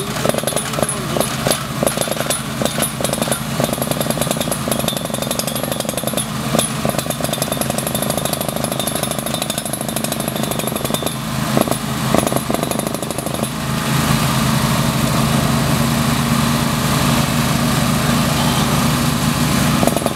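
Small engine-driven exploration drilling machine running steadily, with irregular knocks over the first part. About two-thirds of the way in it settles into a louder, even run.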